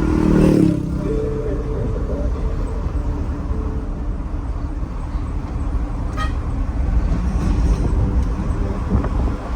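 Mini dump truck's engine and road noise heard from inside the cab while driving, a steady low rumble. A short horn toot sounds right at the start.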